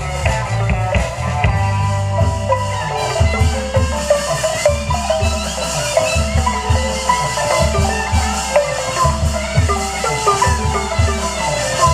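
Burmese dance music: a fast melody of short struck notes on a xylophone-type mallet instrument over drum beats, which settle into a steady pulse about three seconds in.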